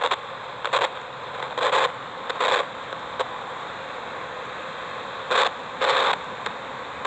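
Spirit box radio scanner giving short, irregular bursts of static, about seven in a few seconds, over a steady background hiss.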